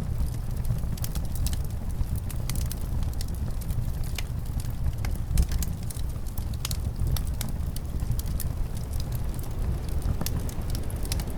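Wood fire crackling with frequent irregular sharp pops over a steady low rumble of wind.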